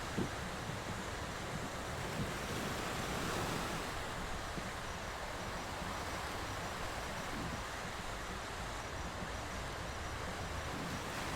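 Sea surf: a steady rushing wash of waves, swelling slightly about three seconds in, with two brief low thumps in the first few seconds.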